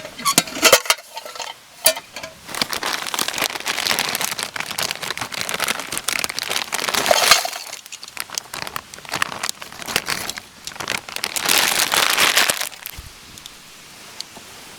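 Close-up handling noises in irregular bursts: crinkling and rustling with sharp clicks and clinks, loudest in two long stretches about two to seven seconds in and again around eleven to twelve seconds.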